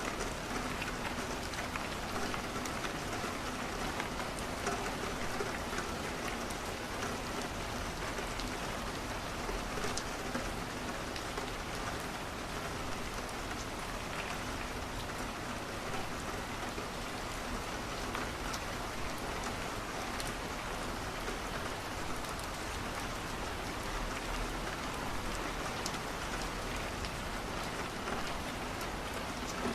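Steady rain, an even hiss with scattered faint ticks.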